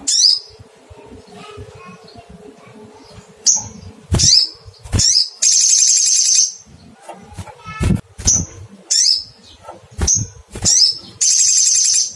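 Olive-backed sunbird calling: a series of sharp, high 'cuit' chirps, with two longer rapid buzzing trills, about five seconds in and near the end.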